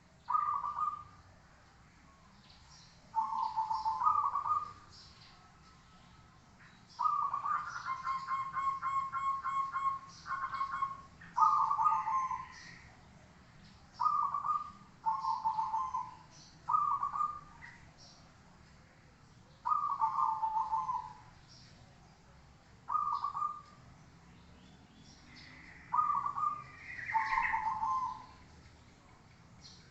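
Zebra dove (perkutut) cooing: short, repeated phrases of rapid coos, about a dozen in all with pauses between, one of them a longer run of quick even notes. A few fainter, higher bird notes sound between the phrases.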